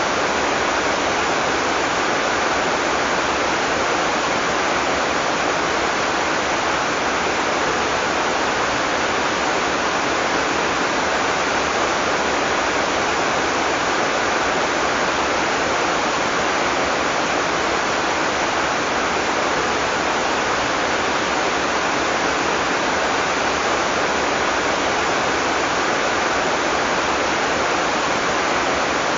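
Heavy tropical rain falling in a steady, dense hiss, with no thunder.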